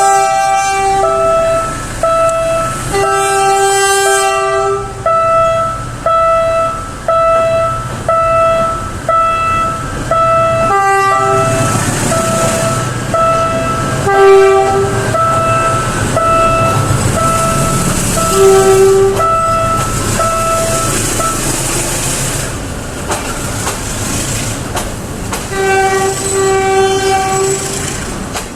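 Train horn sounding over and over: a few long blasts and a run of short blasts about one a second, while the train runs past with rumble and wheel clatter that is loudest in the middle of the stretch.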